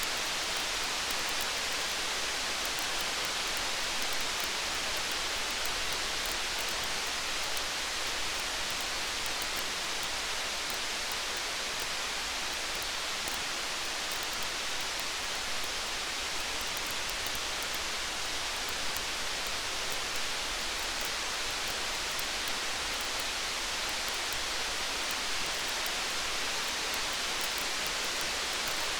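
Steady rain, an even soft hiss, with faint scattered crackles of a wood fire.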